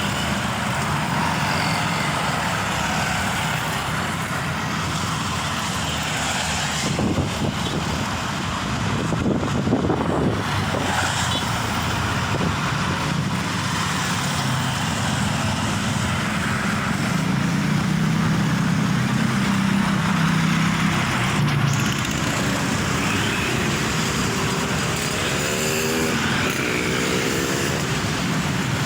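Road traffic passing, with the diesel engine of a heavy truck running steadily and swelling louder as it goes by. Near the end a short rising whine comes from an accelerating vehicle.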